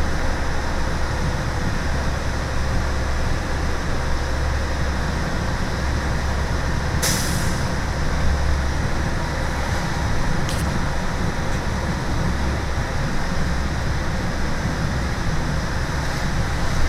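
Diesel school bus heard from the driver's seat while driving: a steady low engine and road rumble. A short hiss comes about seven seconds in, and a small click about three seconds later.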